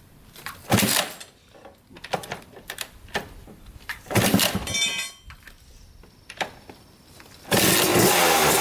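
1995 Kawasaki KX250 single-cylinder two-stroke dirt bike being kick-started: two hard kicks, about one and four and a half seconds in, with light knocks between them. Near the end the engine fires and runs loud.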